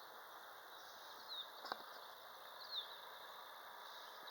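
Faint outdoor ambience with a steady background hiss, and a small bird giving short downward chirps about three times, with one sharp click a little before the middle.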